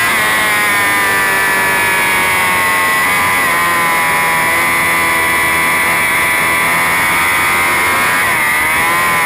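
BMW S1000RR racing motorcycle's inline-four engine running hard at high revs, heard from the bike itself. The pitch eases a little at first, holds nearly steady, then dips and climbs again near the end.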